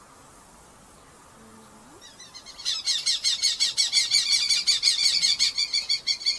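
Red-footed falcons calling in a fast series of shrill repeated notes, starting about two seconds in and loud from about three seconds on.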